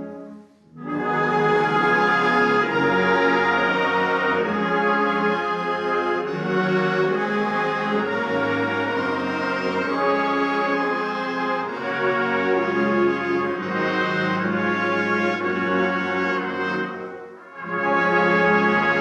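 Community wind band playing, with brass leading. The full band comes in after a brief silence just under a second in, and breaks off for a moment near the end before going on.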